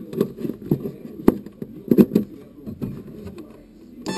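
Irregular knocking and rattling picked up on board a Tamiya Scania R470 radio-controlled truck model as it drives, from the loosely mounted camera and the model's body. The knocks come at uneven intervals, the sharpest a little past one second in and at about two seconds.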